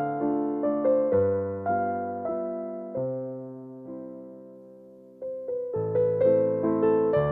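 Background piano music. Single notes and chords are struck and left to die away. A held chord fades out from about three seconds in, and the playing starts again a little after five seconds.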